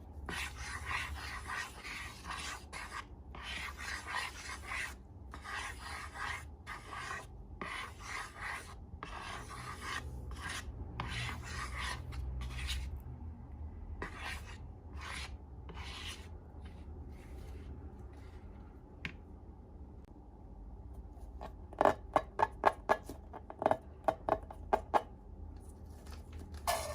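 Repeated rubbing and scraping strokes, a bit under one a second, for most of the time. Later comes a quick run of sharp, loud clicks or snaps.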